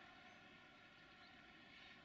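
Near silence: faint, steady outdoor background with the distant hum of a diesel train still far down the line, approaching.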